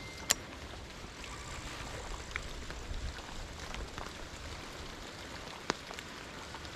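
Steady rain pattering, with a few sharp ticks standing out: one just after the start and another near six seconds in.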